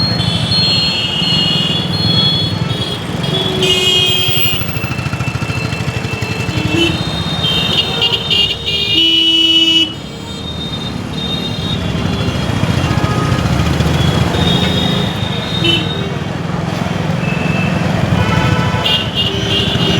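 City street traffic heard from a moving motorcycle: a steady low engine and road rumble, with vehicle horns honking several times, the longest run of honks about eight to ten seconds in.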